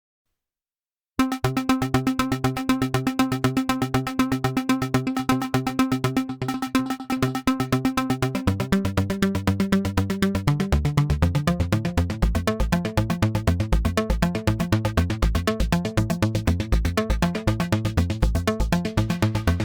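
Cherry Audio P10 software polysynth playing an arpeggiator preset: after about a second of silence, a fast, evenly repeating run of synth notes starts. A deeper bass line comes in over the last half.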